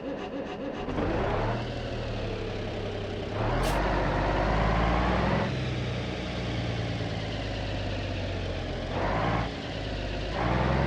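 Small motor of a homemade toy tractor running, its pitch stepping up and down several times as it works against the mud.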